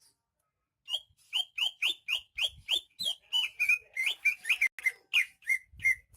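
Green leafbird (cucak ijo) singing a fast run of short whistled notes, about four a second, each slurring downward; the song starts about a second in.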